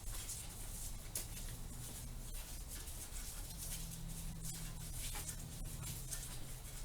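Faint, irregular scratching and rubbing of a hand wrench working against the metal of the engine while a tensioner bolt is loosened, over a soft low hum.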